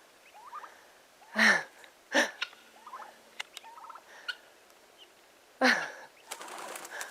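Guinea fowl giving loud, harsh calls: three strong calls about 1.5, 2 and 6 seconds in, with fainter chirps between them.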